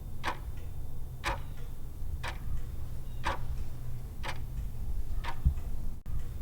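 Clock ticking, about one tick a second, over a steady low hum: a countdown timer during the answer pause.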